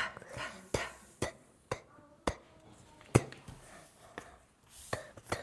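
A series of sharp taps or knocks, about nine in all, falling irregularly roughly every half second to a second, with faint voice sounds between them.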